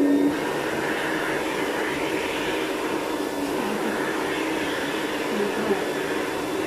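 Vacuum cleaner running steadily, with a constant low hum under its rushing noise.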